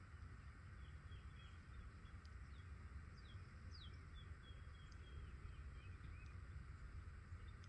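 Faint birds chirping, with many short calls and quick falling notes, over a low steady rumble.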